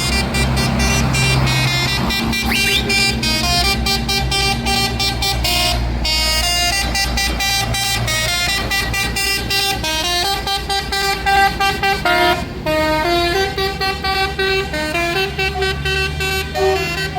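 A musical vehicle horn playing a tune in quick successive notes, over the low rumble of running tractor or truck engines.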